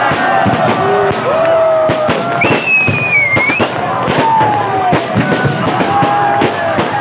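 Fireworks banging and crackling repeatedly, mixed with music and crowd voices. A whistle rises and falls about halfway through.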